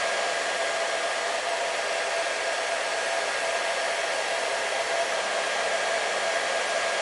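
Hair dryer running steadily: an even rushing of blown air with a steady motor whine.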